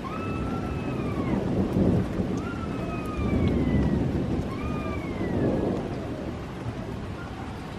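Thunder rumbling in swells over falling rain. Above it a fainter high tone glides up and falls away four times.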